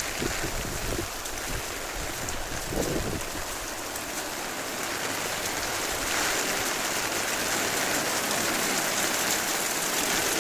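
Heavy rain pouring down steadily in a torrential downpour from a stationary typhoon rainband. A few low thuds come in the first three seconds, and the rain grows slightly louder about six seconds in.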